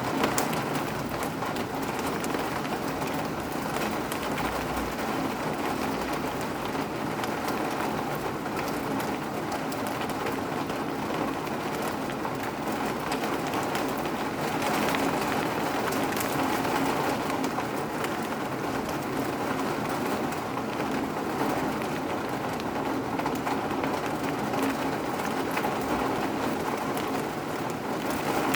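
Steady rain falling, an even hiss of drops without letting up.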